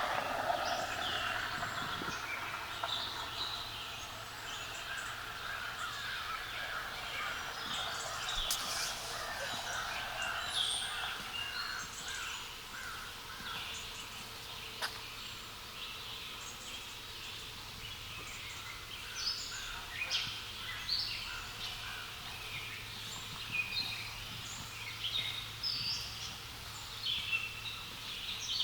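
Several wild birds calling and singing in short chirps all through, with a run of quickly repeated notes in the first half, over a faint steady background hush.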